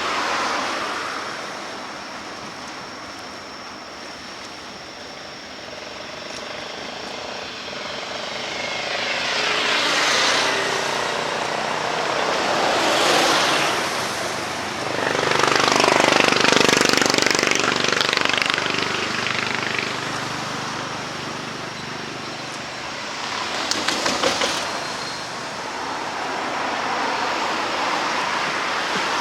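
Road traffic: several vehicles pass one after another, each swelling and fading away, the loudest just past the middle, with a short fluttering pass near the end.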